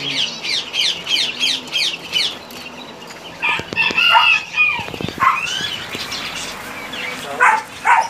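Caged birds calling: a quick run of falling chirps, about four a second, for the first couple of seconds, then louder, lower calls from several birds through the rest.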